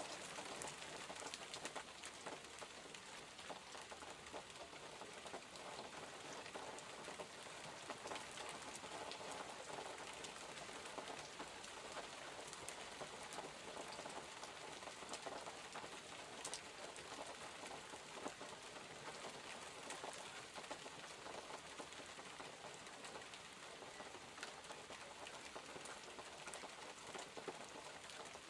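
Steady rain falling, a constant hiss dotted with many small sharp drips and taps.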